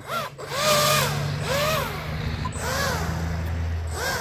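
RC air-propeller fan boat's electric motor on a 4S battery blipped in short bursts, about five times. Each burst is a whine that rises and falls in pitch, over a low steady hum.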